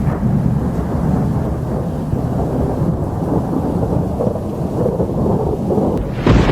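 Thunder rumbling low and continuously, with a sharper crack of thunder near the end.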